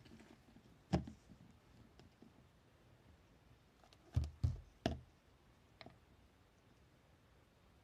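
A few soft knocks and taps close to the microphone: one about a second in, three in quick succession around four to five seconds, and a faint one near six seconds.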